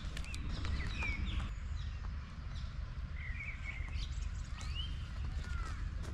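Several birds chirping with short calls that glide up and down, over a steady low rumble of outdoor background noise.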